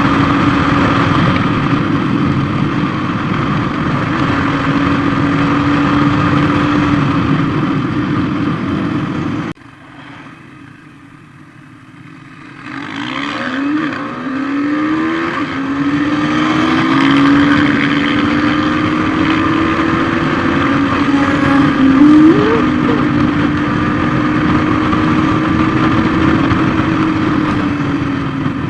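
Motorcycle engine running at a steady pitch. About ten seconds in the sound cuts off abruptly and stays low for a few seconds, then comes back as several short rising sweeps as the bike accelerates through the gears, and runs steadily again.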